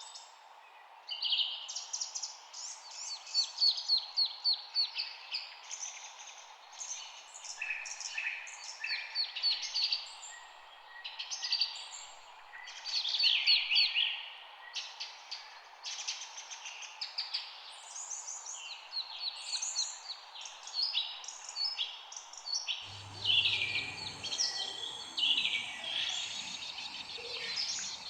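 Several small songbirds chirping in quick, rapid-note trills, phrase after phrase, over a steady hiss. A low rumble joins near the end.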